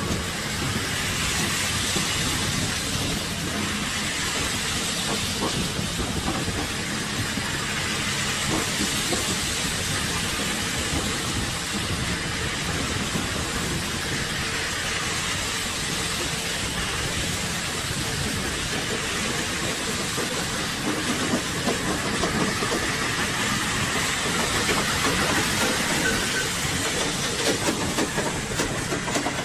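Continuous vehicle running noise: a steady rumble with hiss and a faint engine hum, a little louder near the end.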